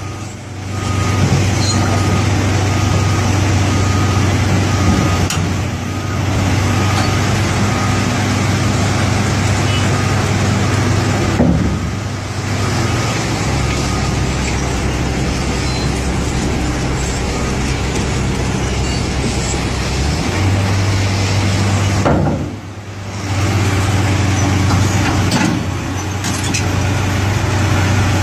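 Excavator's diesel engine running steadily under load, with a deeper tone for several seconds in the middle before returning to its earlier pitch; the sound drops out briefly three times.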